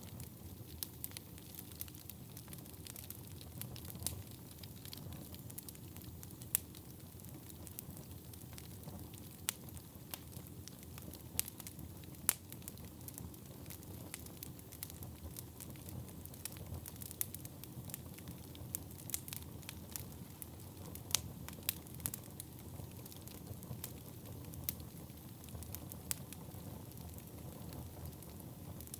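Wood fire burning in a fireplace: a steady low rumble of flames under constant irregular crackling, with sharper, louder pops from the wood every few seconds.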